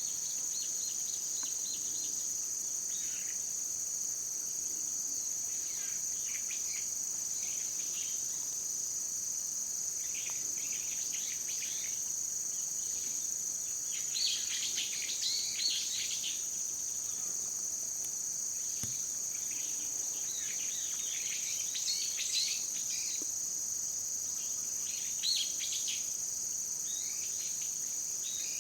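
Steady, high-pitched chorus of insects trilling, with scattered bursts of quick bird chirps over it, loudest about halfway through and again later.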